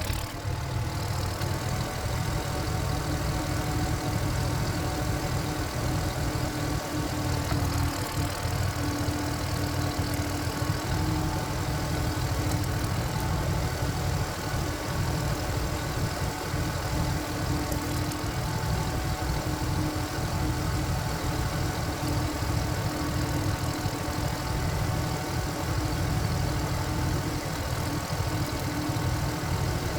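Walk-behind power tiller's single-cylinder diesel engine running steadily.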